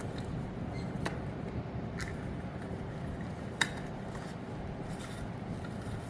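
Metal parts of a wire bird cage clicking together while it is being assembled: a few sharp clicks, the loudest about three and a half seconds in, over a steady low rumble.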